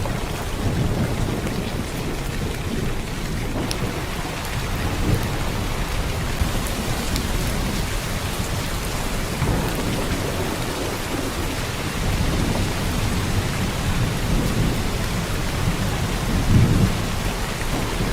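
Heavy downpour of rain, a steady hiss of drops with a low rumble underneath that swells briefly near the end.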